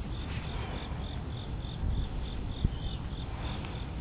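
Insects chirping in a steady rhythm, about three or four chirps a second, over a continuous higher buzz. A low rumble runs underneath, with one brief knock about two-thirds of the way through.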